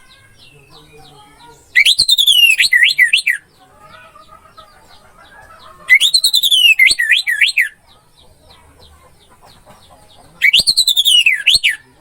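Orange-headed thrush singing the same rising-then-tumbling whistled phrase three times, about four seconds apart, each ending in quick up-and-down notes. Faint rapid high ticking runs underneath.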